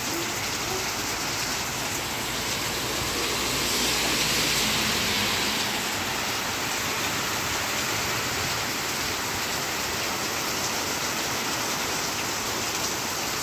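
Heavy rain pouring down steadily, a dense, even hiss that swells slightly about four seconds in.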